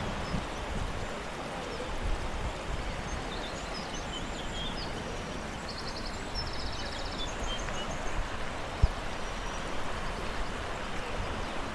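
Steady rush of running water, with small birds chirping and giving a short trill over it, and one dull bump about nine seconds in.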